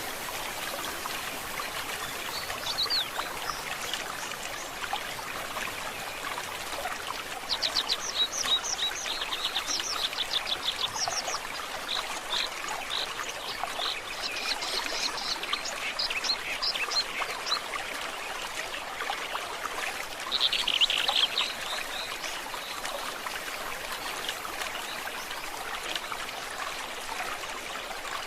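Forest stream trickling steadily over rocks, with songbirds calling over it: a run of quick repeated notes about a quarter of the way in, scattered chirps after, and a short busy burst about three quarters through.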